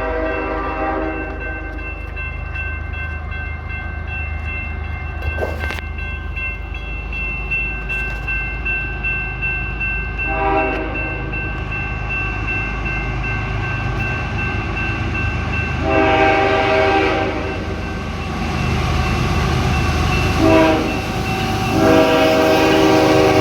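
Freight train diesel locomotives approaching a grade crossing, their low rumble building, while the lead locomotive's air horn sounds the crossing signal: a blast at the start, another about ten seconds in, a longer one about sixteen seconds in, then a short blast and a long one near the end. A thin steady ringing from the crossing's warning bell runs beneath for the first two-thirds.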